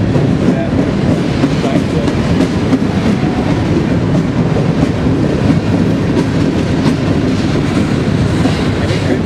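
Heavy freight train rolling slowly past at close range inside a railroad tunnel: a loud, steady rumble of wheels on rail with clicking from the wheels.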